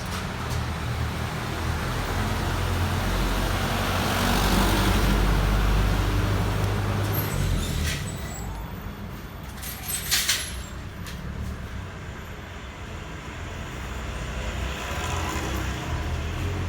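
Steady road-traffic rumble that swells for a few seconds in the first half and then eases, with a few short sharp clicks near the middle.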